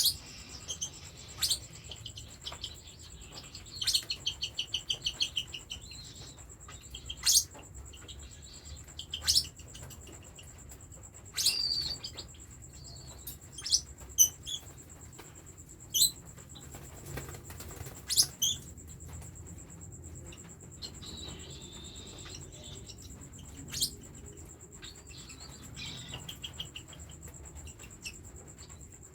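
Cockatiel chicks giving rapid, pulsing begging calls in short runs, with sharp single chirps in between: the hungry calls of babies wanting to be handfed.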